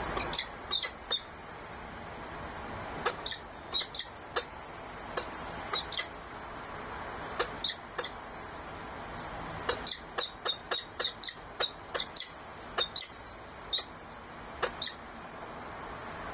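Birds chirping: short, sharp, high calls in quick clusters of three to six, with pauses between, over a steady background hiss.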